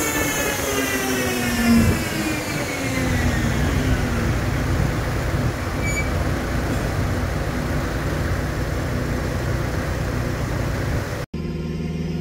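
Tuned BMW B48 2.0-litre turbocharged four-cylinder on a chassis dyno, revs falling steadily after a pull, then a steady rushing noise as the car runs down on the rollers. Near the end it cuts off abruptly to a steady low hum.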